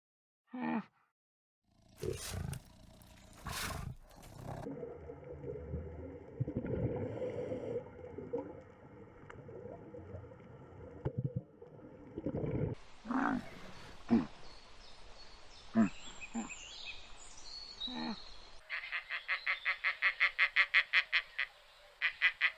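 A series of calls from several different animals, one after another, ending in a fast, even run of about six calls a second.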